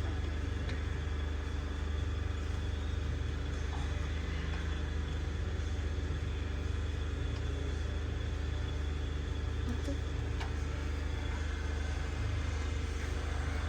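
A steady low mechanical hum, unchanging throughout, with a few faint clicks over it.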